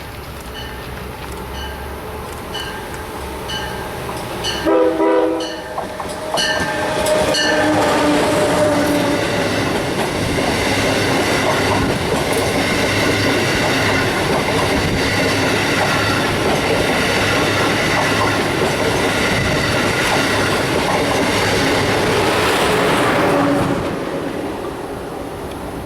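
Amtrak train approaching under evenly spaced dings, sounding its multi-note horn in two blasts, a longer then a shorter one, then passing at speed with a loud steady rush and rattle of wheels on rail for about fifteen seconds before it fades.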